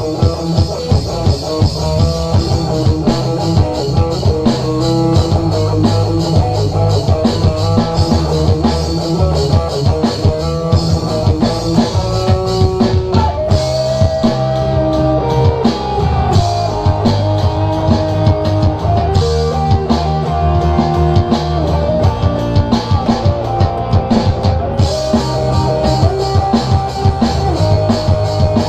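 Rock band playing live, drum kit driving a steady beat under electric guitar.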